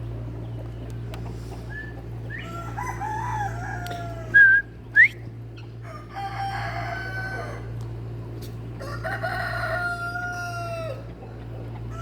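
Roosters crowing, about three long falling crows in turn. Two short, loud whistled bird notes cut in at the middle, the second one rising.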